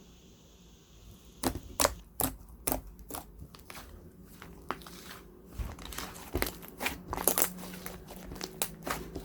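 Plastic wrapping of a green tea cream bread being crinkled and torn open, a run of sharp irregular crackles starting about a second and a half in.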